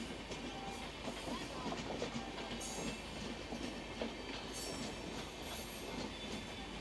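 Passenger train of LHB coaches rolling past with a steady rumble of wheels on rail, scattered knocks over the rail joints and a few brief wheel squeals.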